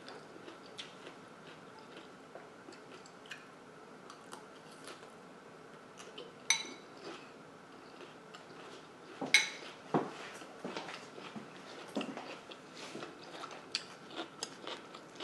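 Quiet crunchy chewing of a mouthful of raw kale salad, with scattered small crunches and a few sharper clicks of a spoon against a ceramic bowl, the loudest about nine to ten seconds in.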